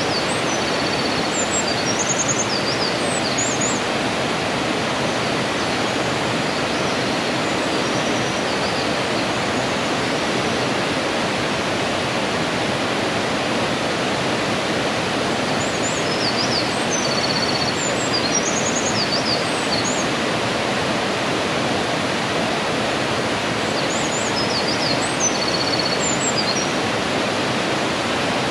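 Mountain stream in a gorge, a steady full rush of running water. A small bird sings short high twittering phrases over it three times: near the start, midway and near the end.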